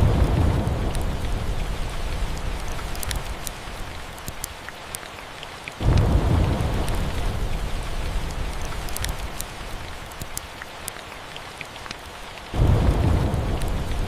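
Steady rain with three rolls of thunder: the first starts suddenly at the very beginning, the second about six seconds in and the third near the end, each with a deep rumble that fades slowly back into the rain.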